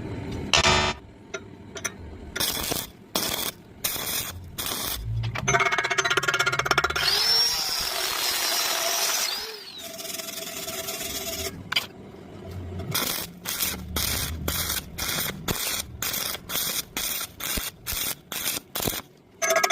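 Electric welding arc on iron pipe, heard as noisy bursts that start and stop abruptly. A steady run of about four seconds sits in the middle, then a quick series of short bursts about twice a second near the end.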